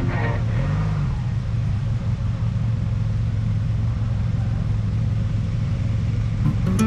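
Motorcycle running on the road, a steady low engine hum under road and wind noise.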